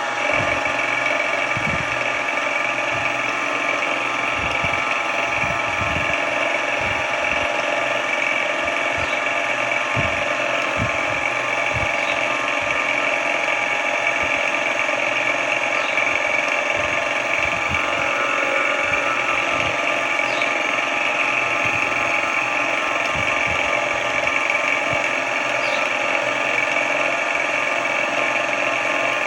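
Sodré SX2 bench mill-drill running steadily. Its motor and gearing give a steady whine made of many tones, with irregular low knocks underneath.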